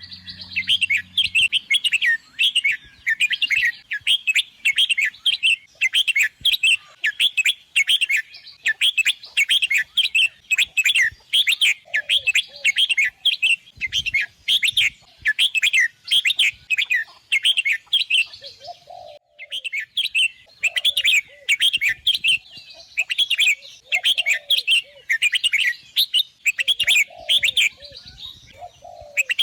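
Red-whiskered bulbul singing: rapid warbled phrases repeated almost without pause, with a brief break about two-thirds through.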